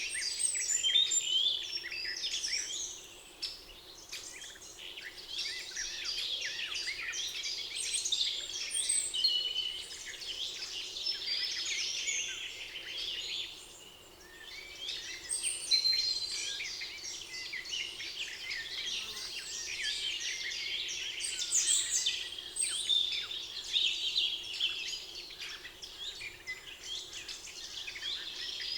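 Many songbirds singing at once, a dense chorus of chirps and trills with a couple of brief lulls.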